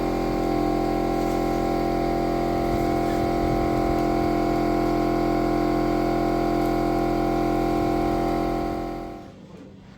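A motor-driven machine running with a steady, even hum, then dying away about nine seconds in.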